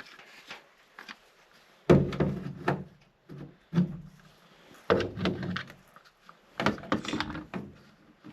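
Magnetic camera mount being moved and reattached on sheet metal: three loud clunks with a short metallic ring, about two, five and six and a half seconds in, with smaller knocks and handling rattle between them.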